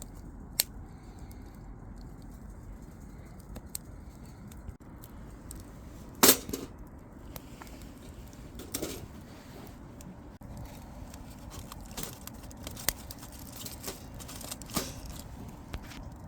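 Wood fire crackling: irregular sharp pops and snaps over a low steady background, the loudest pop about six seconds in.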